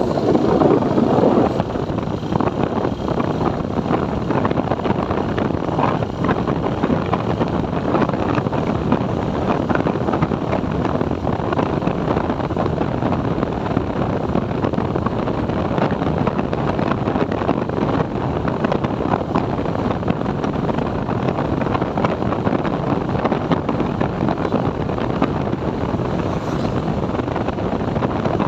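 A motorcycle riding along, with steady wind rush over the microphone over the bike's running engine and road noise.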